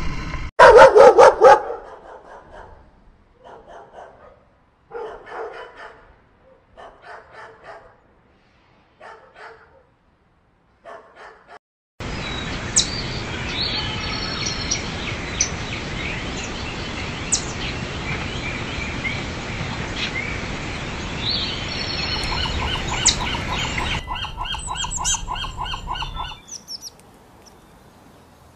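A dog barking, a loud burst at first and then a string of short separate barks, followed about halfway through by birds chirping over a steady hiss, and near the end a quick run of short repeated calls.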